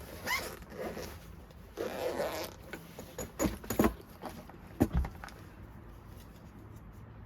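A zipper being pulled with a short rising rasp, then more rustling handling noise and a few sharp knocks, the loudest of them about three and a half to five seconds in.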